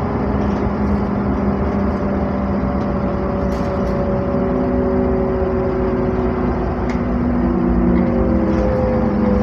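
NefAZ-5299 city bus running, heard from inside the cabin: a steady engine and road rumble with a drivetrain whine that drifts slowly lower in pitch as the bus eases off. Faint clicks come twice near the end.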